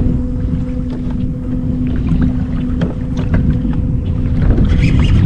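Wind rumbling on the microphone over water, with scattered small knocks and splashes, over a steady low hum; the higher hiss and splash grows louder near the end.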